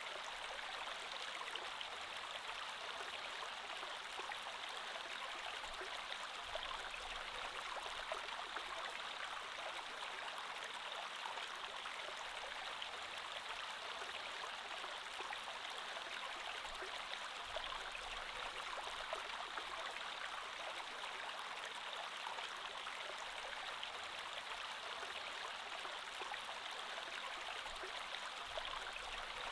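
Creek water flowing steadily over stones, an even rushing and babbling sound.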